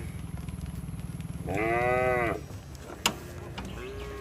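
A cow moos once, a call of just under a second whose pitch arches up and falls away, about a second and a half in; a sharp click follows, and a fainter moo begins near the end.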